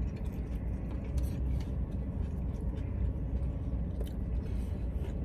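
Biting into and chewing a crispy fried chicken sandwich, a few faint crunches over the steady low hum of the car.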